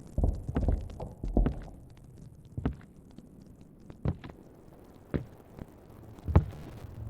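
Wood fire in a fireplace crackling, with irregular sharp pops and dull knocks of burning logs, the loudest a little after six seconds in.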